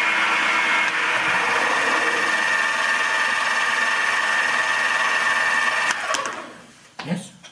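Milling machine cutting aluminium with an end mill, a steady machining noise with a high whine. About six seconds in the machine is switched off and dies away over a second, followed by a couple of light clicks.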